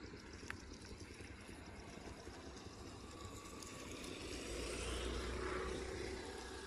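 Small four-stroke gasoline water pump engine running steadily, with water rushing through; the sound grows louder about four to six seconds in, then eases.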